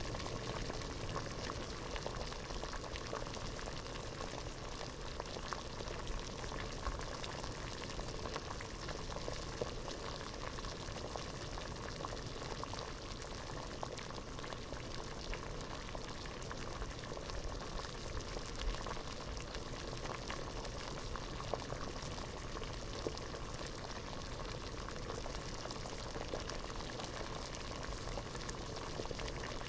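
Water at a rolling boil in a pot, bubbling steadily with a dense stream of small pops.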